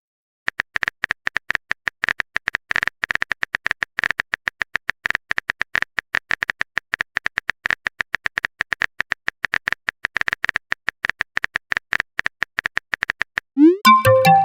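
Rapid, irregular clicking of a keyboard-typing sound effect, as a chat message is typed out. Near the end comes a short chime with a rising sweep, the kind of tone used for a message notification.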